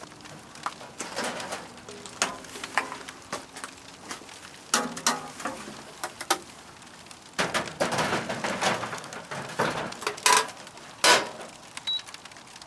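Scattered clicks, knocks and rustling of things being handled, with a few sharper knocks near the end.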